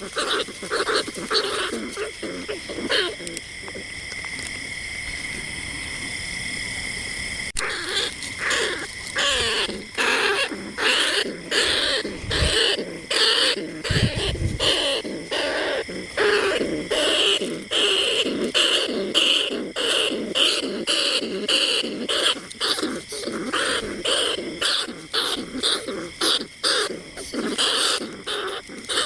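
Rats squeaking: a dense run of short, rapid high-pitched calls, with a steady high tone beneath them for the first few seconds and an abrupt change about seven seconds in.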